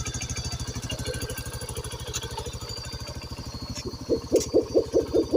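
Motorcycle engine idling with a steady, even beat; about four seconds in, a louder, evenly repeating pulsing sound joins it.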